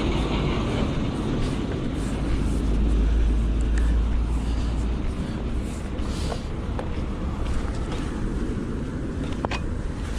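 A road vehicle going by, a low rumble that swells a couple of seconds in and fades, with a few faint clicks.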